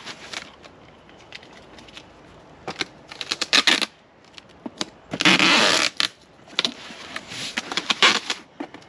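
Handling noise: a series of sharp clicks and crinkly rustles, with the longest, loudest rustle about five seconds in, like packaging and parts being handled.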